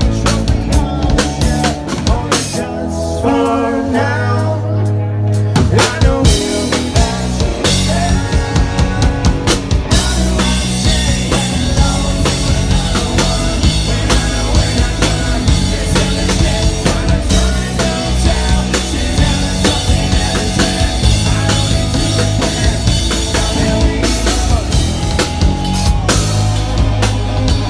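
Live rock band playing with a full drum kit, bass drum and snare driving a steady beat under bass and guitars.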